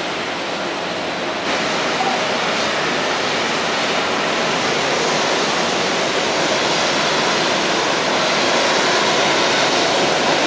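Boeing 777-300ER's GE90 jet engines giving a steady, even rushing roar that steps up in loudness about a second and a half in.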